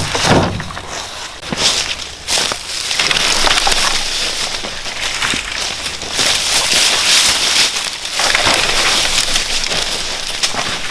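Crunching and crackling in dry forest litter, with scattered sharp snaps and louder stretches in the middle.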